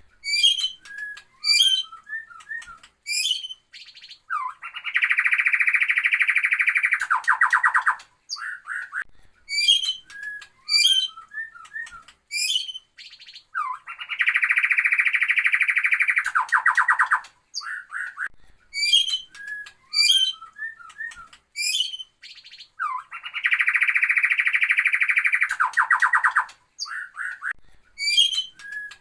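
Looped recording of bird song played as a lure to prompt a caged bird that has stopped singing: sharp high chirps, then a loud buzzy trill of about three seconds ending in a lower rattle. The same phrase sequence repeats about every nine seconds.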